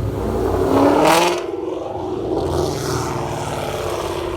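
A car engine revving hard: the pitch climbs to a loud peak with a sharp burst about a second in, then falls away as the engine eases off.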